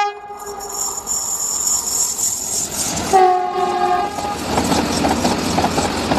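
Vande Bharat Express train sounding its horn: one blast fades out at the start and a second, shorter blast comes about three seconds in, with a rushing hiss between them. Over the last couple of seconds the train runs past close by with a steady clatter of wheels over the rails.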